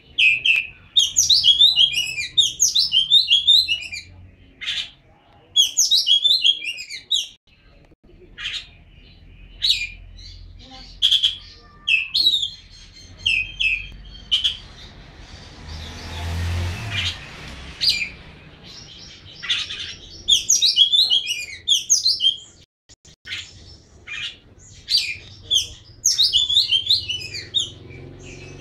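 Oriental magpie-robin (kacer) singing loudly, with rapid phrases of varied whistled and chattering notes lasting a second or three each, separated by pauses and single sharp calls.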